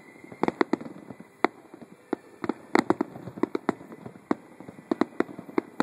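Aerial fireworks shells bursting in a rapid, irregular run of sharp bangs, about three a second.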